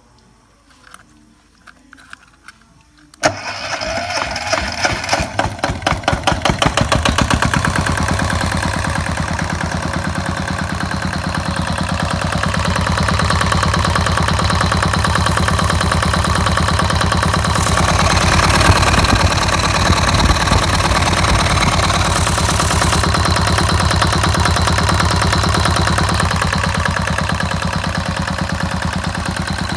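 Farymann 30L30 marine diesel engine starting: after a few faint clicks it fires about three seconds in, runs with a strong pulsing beat for a few seconds, then settles into steady running, a little louder for a stretch past the middle.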